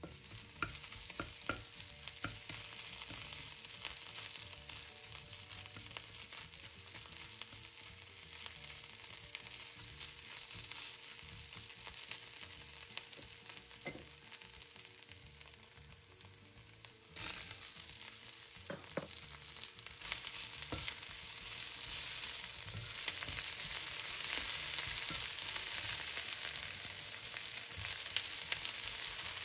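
Grated garlic and ginger sizzling in hot oil in a nonstick frying pan, with a slotted spatula scraping and tapping the pan as it stirs. The sizzle grows louder about twenty seconds in, with sliced onion being stir-fried by the end.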